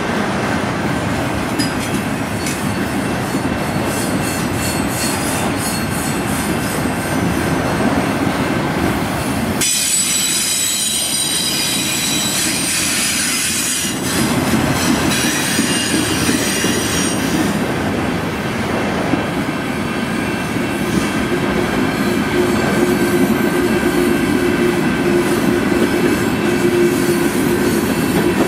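Autorack and tank cars of a freight train rolling past: a steady rumble and clatter of steel wheels on rail, with high-pitched wheel squeal strongest about ten to fourteen seconds in. A lower steady squeal-like tone joins in over the last several seconds.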